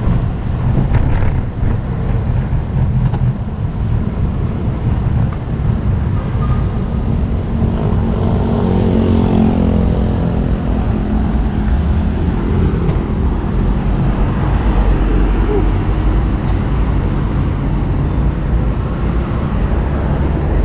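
Wind rushing over an action camera's microphone on a moving bicycle, with road traffic noise. A motor vehicle passes about eight to eleven seconds in, its engine note rising and falling.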